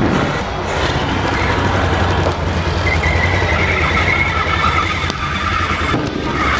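Demolition derby vehicles' engines running with a steady low rumble, joined from about three seconds in by a high steady whine lasting about two seconds.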